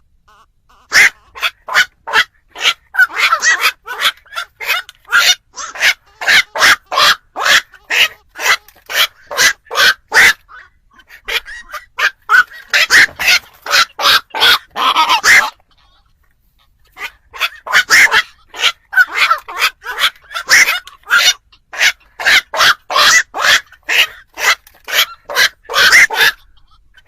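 Black-crowned night heron calls, a lure recording for trapping: short, sharp calls in quick series, two or three a second, broken by a pause of about a second and a half around the middle.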